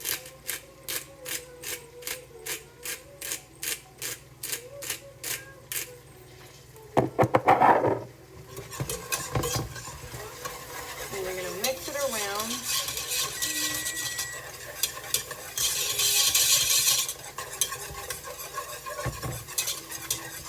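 Utensil stirring a butter and cream cheese sauce in a pot, clinking against the pot about three times a second for the first six seconds. About seven seconds in there is a loud scrape, and after that the sauce sizzles under continued stirring.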